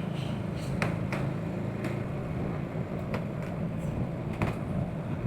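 Honda Pridor 100cc motorcycle's single-cylinder four-stroke engine running steadily on the move, with a few brief clicks.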